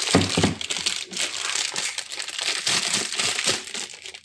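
Plastic bags of piston rings crinkling and rustling continuously as they are handled and opened by hand.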